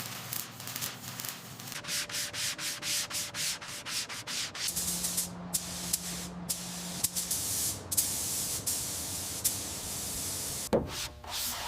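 Hand sanding or rubbing on a surface in quick, rhythmic strokes, about three or four a second for a few seconds, then a steadier scraping hiss with a faint hum under it. A sudden sharp sound comes near the end.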